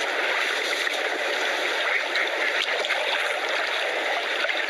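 Running stream water, a steady babbling rush.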